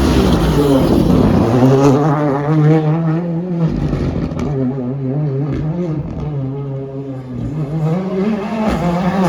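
Rally car engine revving hard with repeated gear changes, the pitch rising and dropping with each shift. It fades somewhat partway through, then grows louder again near the end.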